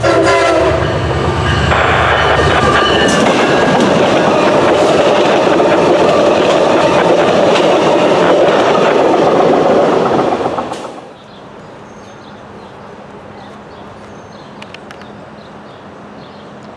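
A train passing close by: wheels rumbling and clicking over the rails, with the end of a horn blast in the first second or so. The rumble drops away sharply about eleven seconds in, leaving a faint background.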